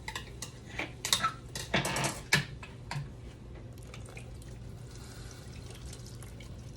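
Pineapple juice poured into a pan of onions and butter, splashing and glugging unevenly for about three seconds, then trailing off to faint drips.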